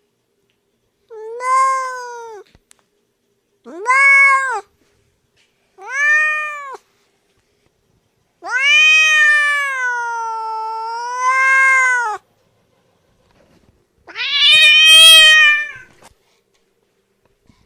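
Domestic cat meowing five times: three short meows, then one long drawn-out meow that sags in pitch in the middle, and a harsher, louder last meow near the end.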